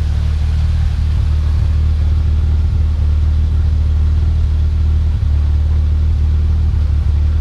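Nissan Sentra's 1.6-litre GA16DE four-cylinder, freshly fitted with a turbo, idling steadily with an even low hum.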